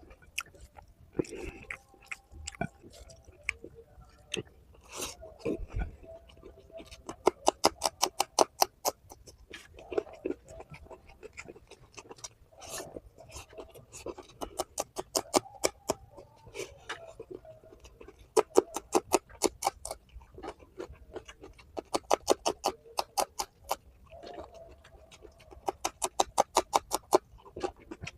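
Close-miked mouth sounds of a person chewing curry and rice, in runs of quick, rhythmic wet smacks that come in bursts a few seconds apart, with quieter chewing between them.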